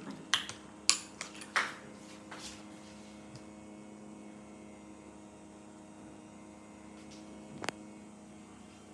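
A few quick clinks and knocks of kitchenware in the first couple of seconds and one more near the end, over a steady electrical hum.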